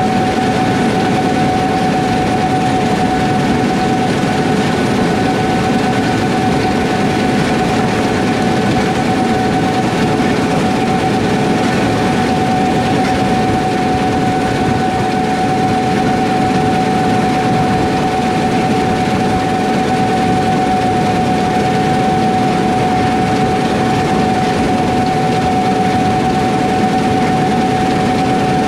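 Heavy diesel harvest machinery running steadily under load, a constant engine rumble with a high, even whine over it.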